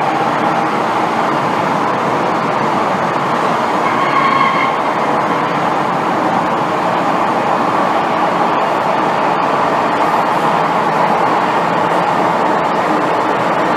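Cabin running noise inside an MTR M-Train metro car: a steady, loud rumble of wheels and motors on the track, with a brief whining tone about four seconds in.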